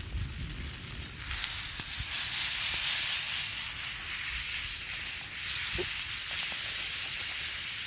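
Food sizzling in a hot frying pan, a steady hiss that grows louder about a second in.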